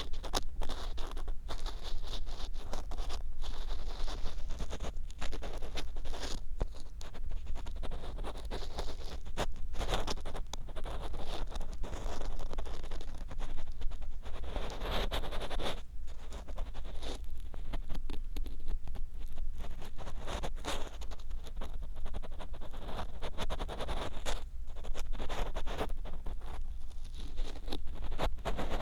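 An ear pick scraping and rubbing inside the silicone ear of a binaural microphone, close and loud, in quick irregular strokes with short pauses. A steady low rumble runs underneath.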